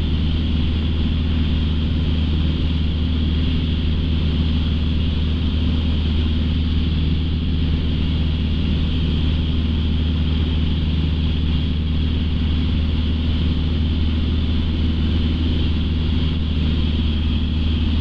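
Light aircraft's piston engine and propeller droning steadily in cruise, heard from inside the cockpit, with no change in pitch or level.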